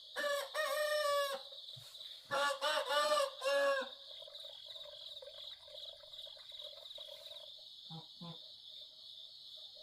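A rooster crowing twice, each crow about a second and a half long, over a steady high insect drone. Fainter short calls follow near the end.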